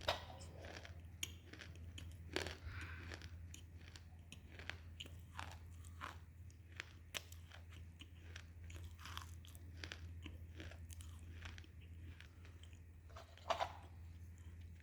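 Close-up crunching and chewing of baked edible clay: scattered sharp crackles, with the loudest bites about two and a half seconds in and near the end, over a steady low hum.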